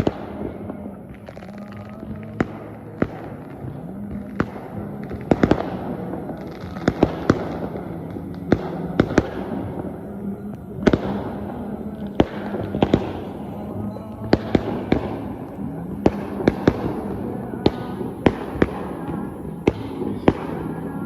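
A long run of sharp bangs or cracks at irregular intervals, sometimes several in quick succession, over a steady low drone.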